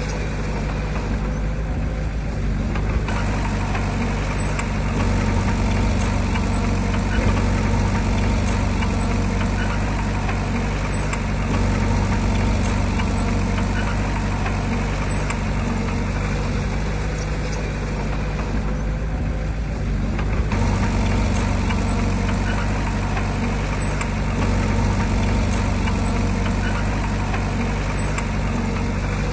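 Heavy diesel engine of earthmoving machinery running steadily with a low drone and a rattling, scraping noise over it. The upper rattle eases briefly twice.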